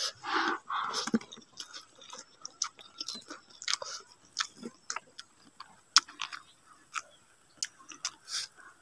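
Close-miked chewing of a person eating rice and vegetables by hand, with many short, irregular mouth clicks.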